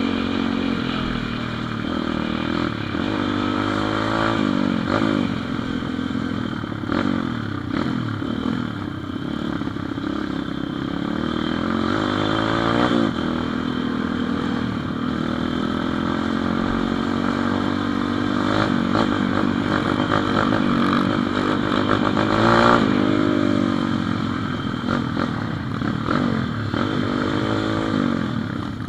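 Pit bike engine running under way, its revs repeatedly climbing and dropping with throttle and gear changes, loudest about three quarters of the way through.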